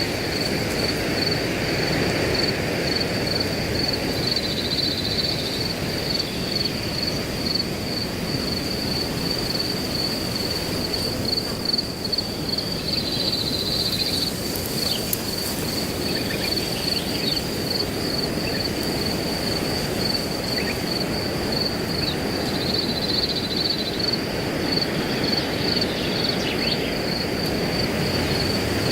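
Wind rushing steadily through grass, with a cricket chirping in an even, rapid high-pitched pulse throughout and a few faint bird chirps partway through and near the end.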